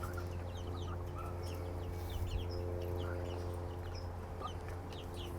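A flock of young chickens and turkeys peeping: many short, high cheeps scattered throughout, over a steady low hum.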